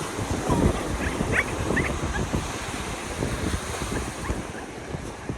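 Wind buffeting the microphone over steady surf, with a few short, high rising whines from a young retriever-mix puppy about a second and a half in.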